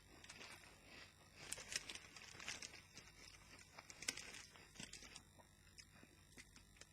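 Faint, irregular crackling and crunching of potato crisps being chewed and handled, with a few sharper clicks scattered through.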